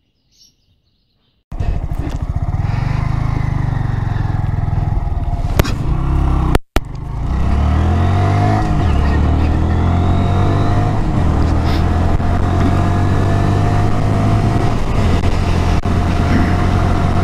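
Honda MSX125SF (Grom) 125 cc single-cylinder four-stroke engine on its stock exhaust, starting about a second and a half in and running as the bike is ridden. After a brief dropout about six and a half seconds in, the engine pitch climbs and falls repeatedly as it accelerates through the gears.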